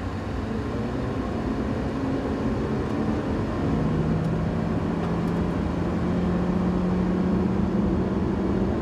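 A car driving at a steady pace: engine drone and road noise, with a steady low engine hum coming in about three and a half seconds in.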